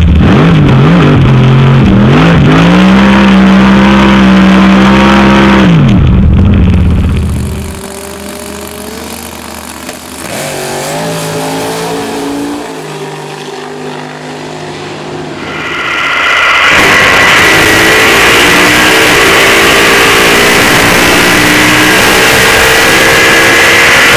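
Drag car's 400 cubic-inch Chevrolet V8, heard inside the cockpit. It revs up and down for the first several seconds, drops much quieter at about eight seconds in with the pitch stepping, then runs loud and steady again from about sixteen seconds with a high whine over the engine note.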